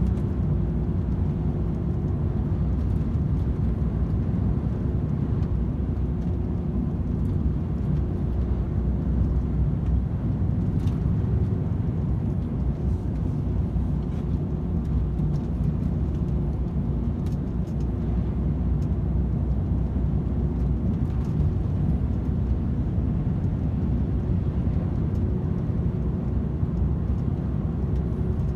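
DAF XF 510 truck cruising steadily on a motorway: a constant low engine and road rumble with a faint steady hum, and no change in speed.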